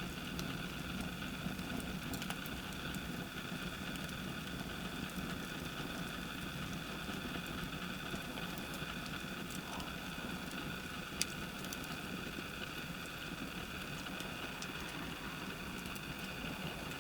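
Campfire burning, with scattered small crackles over a steady hiss and one sharper pop about two-thirds of the way through.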